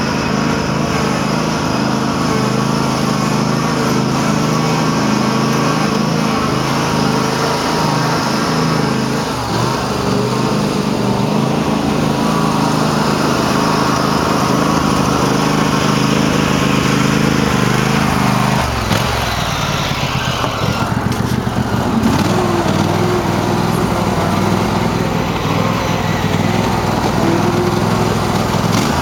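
Cub Cadet garden tractor engine running steadily under load. About two-thirds of the way through, the note drops and runs unevenly for a few seconds, then picks up again.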